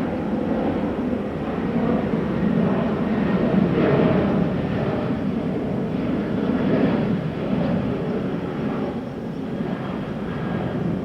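Jet airliner's engines, a continuous rushing rumble that swells and eases a little as the aircraft moves along the runway.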